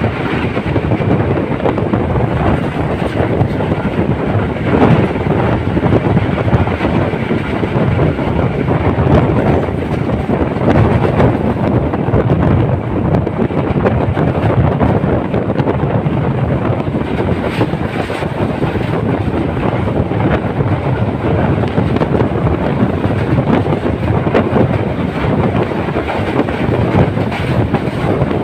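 Passenger train running along the track, heard from on board: a steady rumble of wheels on rail with a few clacks over rail joints.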